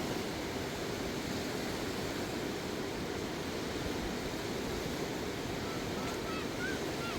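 Steady rushing of a river swollen in flood.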